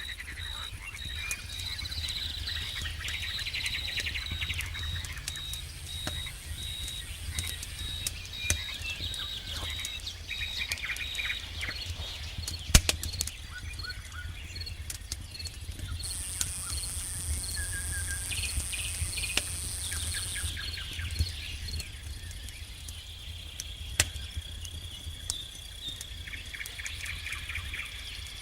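Campfire crackling with scattered sharp pops, two of them loud, over a low rumble of flame. Night insects chirp in a steady pulsed rhythm with a high shrill buzz swelling midway, and bursts of rapid trilling calls, typical of frogs by a lake.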